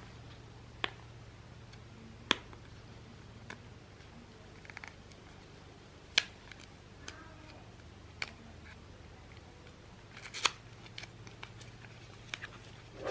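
Packaging of a small accessory being worked open by hand: scattered sharp clicks and snips a second or two apart, with a short cluster of them near the end.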